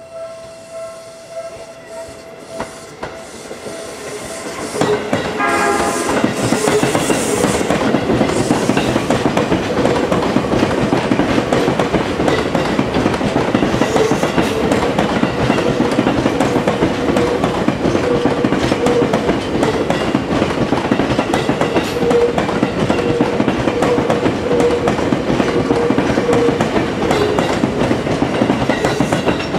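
Seibu Railway electric train in red livery passing close by. After a quieter opening with a steady hum, a short horn blast sounds about five seconds in, then wheels clack over the rail joints and a steady motor hum runs under the rolling noise for over twenty seconds.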